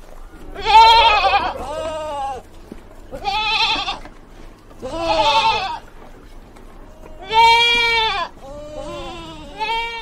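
Sheep bleating over and over: about six calls, each under a second long and wavering in pitch.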